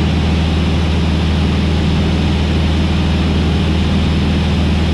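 Cockpit drone of a Van's RV-8's piston engine and propeller in steady cruise on the downwind leg, throttled back to pattern power. The low, even drone holds level without any change.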